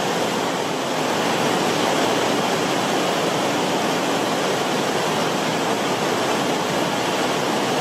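Creek water rippling and bubbling over rocks along the creek bed: a steady, even rushing with no breaks.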